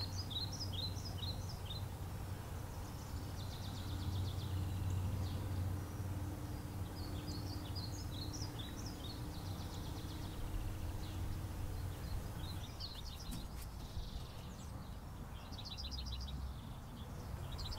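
Small birds chirping and giving quick trills in short bursts every few seconds, over a steady low outdoor rumble.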